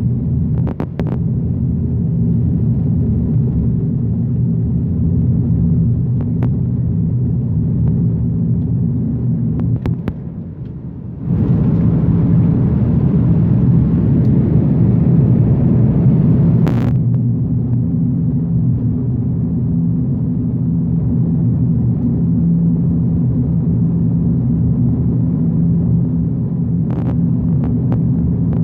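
Boeing 777 jet engines and airframe during takeoff: a steady, loud low rumble with a few steady tones in it. It dips briefly about ten seconds in, then comes back louder.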